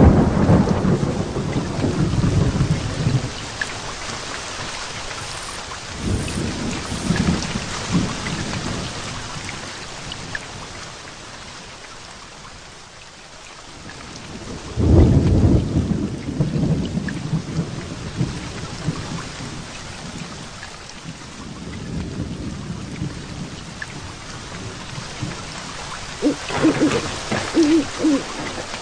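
Heavy rain falling steadily through a thunderstorm, with rolls of thunder rumbling over it: one at the start, another about six seconds in, the loudest about fifteen seconds in, and more near the end.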